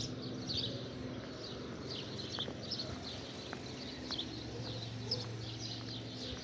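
Small birds chirping, short high chirps repeated many times, over a steady low hum.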